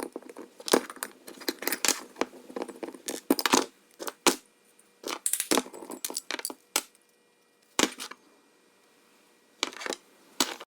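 Small metal parts and hand tools clinking and knocking irregularly, typical of a lawn tractor deck pulley assembly being taken apart by hand. The clatter comes in clusters, goes quiet for a couple of seconds, then returns briefly near the end.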